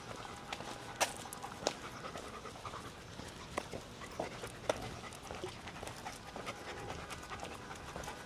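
German Shepherd dog panting steadily, with a few sharp clicks, the loudest about a second in.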